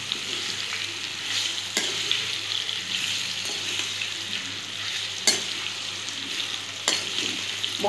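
Raw mango slices sizzling in hot oil with tempered spices in a kadai, stirred with a perforated metal spatula. The spatula knocks sharply against the pan three times.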